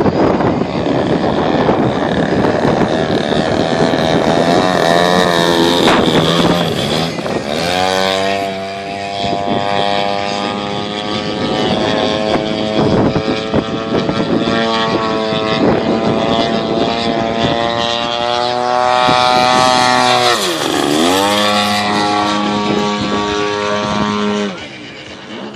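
DA-120 twin-cylinder two-stroke petrol engine of a 35% scale Extra 300 RC aerobatic plane, running loud with its pitch rising and falling. It dips sharply and climbs back about twenty seconds in, then drops away near the end.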